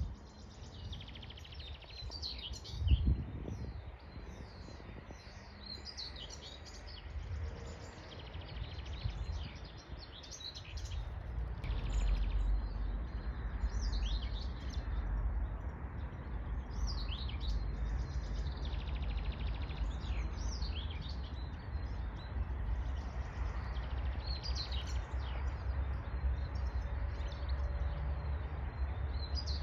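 Songbirds singing, with many short chirping and trilling phrases following one after another, over a low wind rumble that grows stronger about twelve seconds in. A brief low thump about three seconds in.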